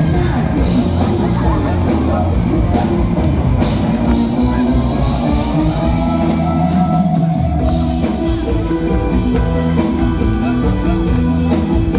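Live band music in Thai luk thung / mor lam style: an instrumental passage with a drum kit keeping a steady beat under held melodic notes.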